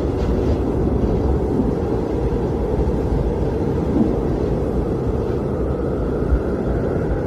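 Blizzard wind blowing steadily: a deep, even rush of noise without any let-up.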